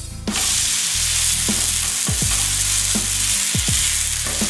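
Onion uthappam sizzling in oil and ghee on a hot dosa tawa. The sizzle jumps up suddenly about a quarter second in, as the uthappam is flipped onion side down onto the pan, then carries on loud and steady.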